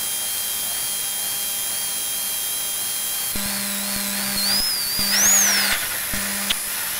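Honda Civic rally car's VTEC engine running at the start line, heard from inside the cabin as a high whine. About halfway through, the whine climbs as the revs are raised, then falls back.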